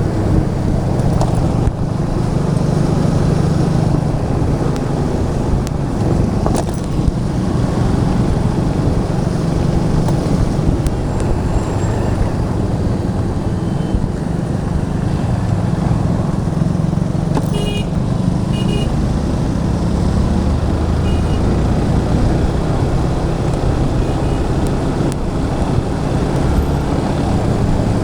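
Motorcycle engine running steadily at road speed, with wind rush on the helmet-mounted camera's microphone. Other vehicles' horns give a few short toots about two-thirds of the way through.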